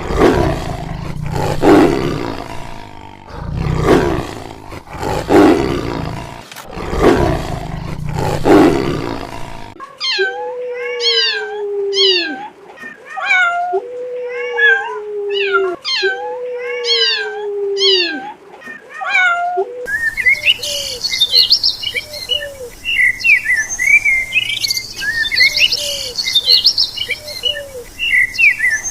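A lion roaring in a series of deep pulses, then another animal's repeated pitched calls, each falling in pitch, then many quick high chirps like birds calling.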